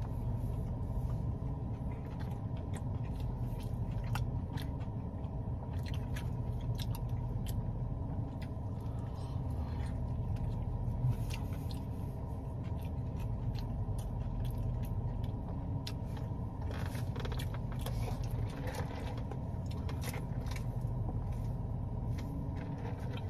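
A person chewing a fried chicken sandwich close to the microphone, with many small wet clicks and smacks of the mouth. Underneath is a steady low hum of the car cabin.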